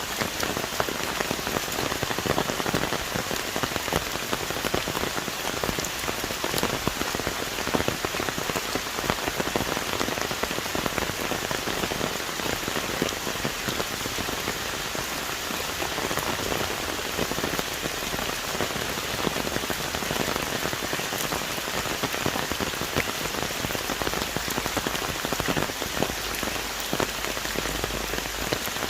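Heavy rain falling on forest trees and foliage: a dense, steady hiss of rain with many small drop impacts.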